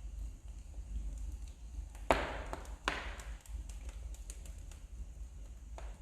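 Wood fire burning in a fireplace, crackling with many small sharp ticks and two louder pops about two and three seconds in, over a steady low hum.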